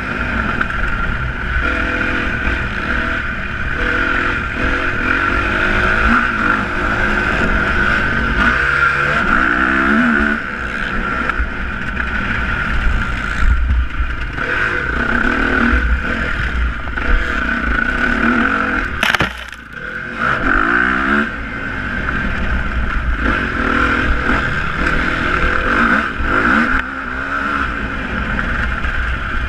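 Motocross motorcycle engines revving, the pitch repeatedly rising and falling as the throttle is opened and closed. A sharp click and brief drop in level come about two-thirds of the way through.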